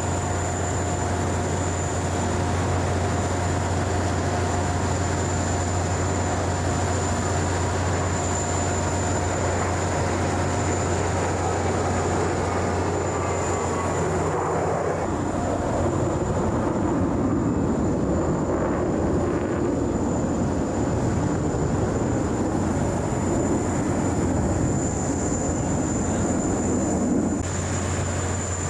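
Aircraft engine noise from aircraft flying past overhead, over a steady low hum. The engine noise grows fuller about halfway through and eases just before the end.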